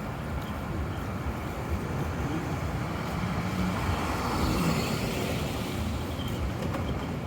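City street traffic, with a vehicle passing about four to five seconds in.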